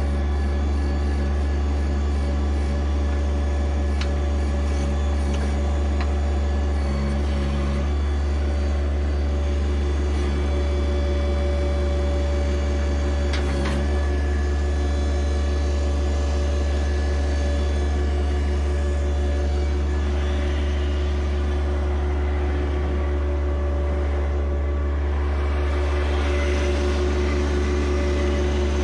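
John Deere 1025R compact tractor's three-cylinder diesel engine running steadily at working speed while its 260B backhoe digs out concrete, with a few faint knocks.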